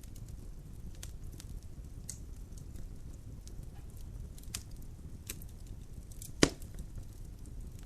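Wood logs burning in a fireplace, crackling with scattered small pops over a steady low rumble of the fire, and one sharp, much louder pop about six and a half seconds in.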